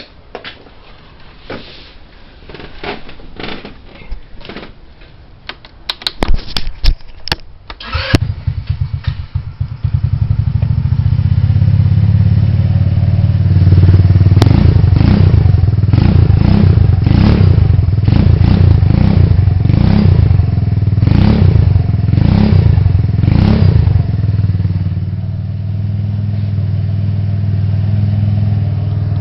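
Roketa scooter with an NCY aftermarket exhaust: a few knocks and clatters, then a burst of loud knocks as it is started, and the engine catches about eight seconds in and runs loudly. From the middle on, about ten sharp pulses come roughly once a second, and near the end it settles to a slightly quieter steady run.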